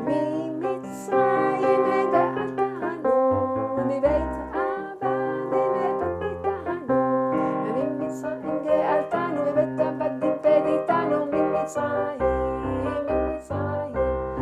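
Electric keyboard playing a song tune, with melody notes over shifting bass notes, and a voice singing along to it.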